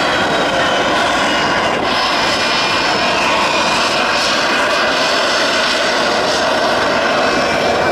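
MiG-15 jet fighter's centrifugal-flow turbojet running loud and steady, with a high whistling whine that drifts slightly in pitch.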